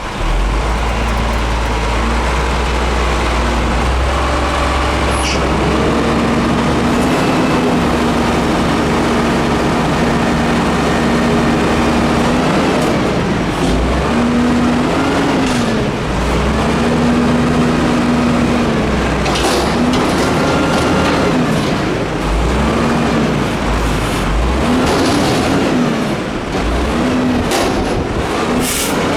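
Diesel engine of a Peterbilt 310 front-load garbage truck running loud, revving up and falling back again and again every couple of seconds, as is typical while the hydraulics work the Heil DuraPack lift arms and packer.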